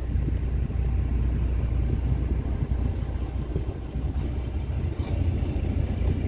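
A boat's engine running steadily, a low rumble, as the large boat is manoeuvred through the marina.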